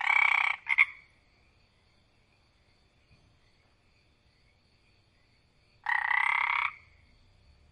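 Frog croaking: a call of about a second at the start followed at once by a short one, then a second call about six seconds in. A faint steady high-pitched drone continues between the calls.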